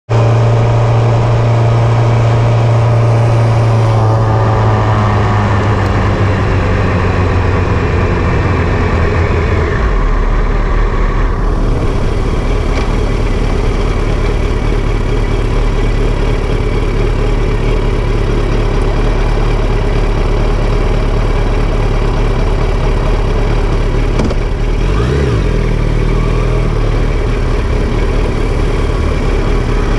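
Motorcycle engine heard from on board: its note falls over the first ten seconds as the bike slows, then it idles with a steady low hum for most of the rest, with a short rise and fall in revs a few seconds before the end.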